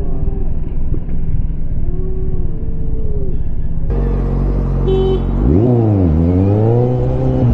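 Motorcycle engine running under a dense low rumble while riding in traffic. After a cut about four seconds in, the engine note drops sharply and then climbs again as the bike slows and accelerates.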